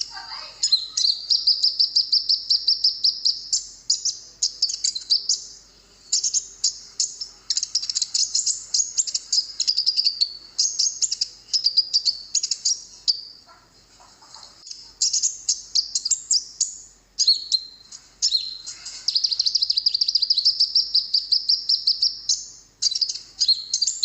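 High-pitched twittering song of a konin (kolibri ninja, a sunbird): long, fast runs of chirps broken by brief pauses.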